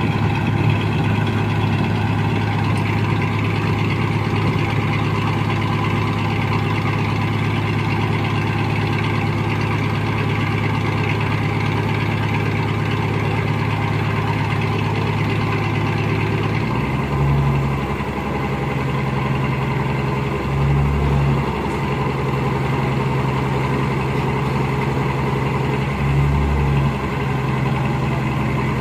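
Heavy machine's engine running steadily at a low, even hum. A little past halfway its note changes, and then it swells briefly three times, each for about a second, as if given short bursts of throttle.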